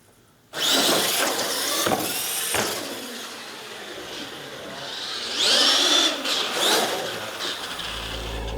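Scale RC monster trucks launching down a drag strip: their motors start suddenly with a loud, rising whine that falls away again, and there are a few sharp knocks from the trucks as they run.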